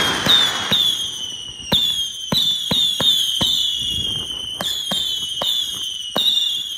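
Mandarin Fireworks cake firing a rapid series of whistling shots. Each shot is a sharp crack followed by a short whistle that falls in pitch, at roughly two a second, the whistles overlapping.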